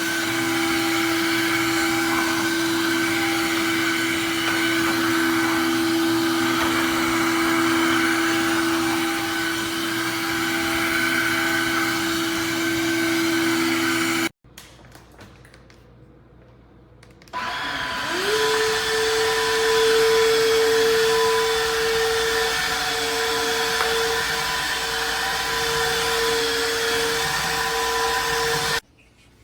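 Cordless wet-dry floor cleaner running, a steady motor whine over the whoosh of suction. It cuts off abruptly about halfway. After about three seconds a motor starts again, its whine rising quickly to a higher steady pitch, and it runs until just before the end.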